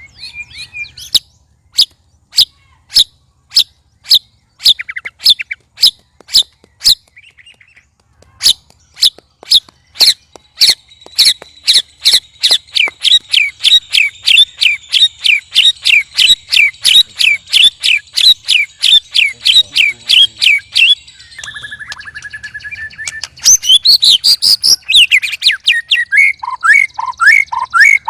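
White-rumped shamas calling loudly. Sharp, evenly repeated notes come about two a second, then speed up into a fast, even run about ten seconds in. Near the end there is a short held whistle and a quick, varied burst of song.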